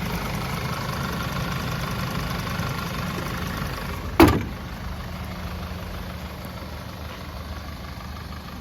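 Audi A4 B8 2.0T turbocharged four-cylinder engine idling steadily on a test run. A single sharp thump comes about four seconds in, and the idle continues a little quieter after it.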